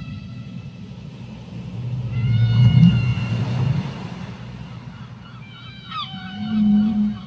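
Whale calls underwater: a held, high call of several tones about two seconds in, over a deep rumble, then a quick falling sweep about six seconds in, followed by a low held tone near the end.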